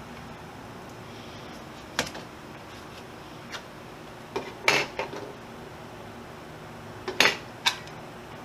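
Steady hiss of heavy rain, with several sharp metallic clinks and knocks on top: one about two seconds in, a cluster near the middle and another near the end.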